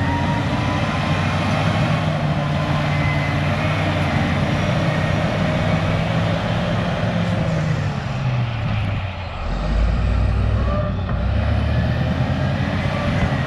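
Cat D6H bulldozer's diesel engine running hard while pushing over a tree. About eight seconds in, its note sags and deepens under the load, then comes back up near the end.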